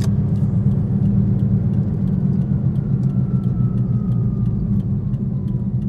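Toyota Prius on the move, heard from inside the cabin: a steady low road drone with a faint whine that slowly falls in pitch. This is the drone the driver suspects comes from the tyres and that the uploader later puts down to a bad wheel bearing.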